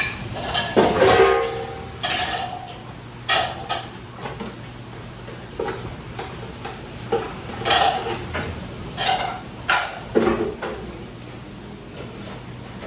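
Dishes and metal pans clattering and clinking as they are handled, with irregular knocks, some ringing briefly, over a steady low hum.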